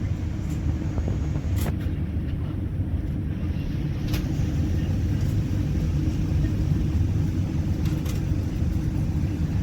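Steady low rumble of cabin noise inside a Boeing 787 airliner, with a few faint clicks.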